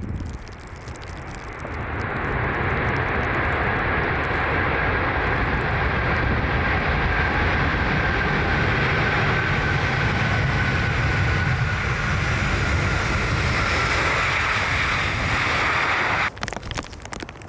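Jet airliner engines running as the aircraft passes, a loud steady roar building up about two seconds in, with a high whine slowly falling in pitch. It cuts off abruptly near the end.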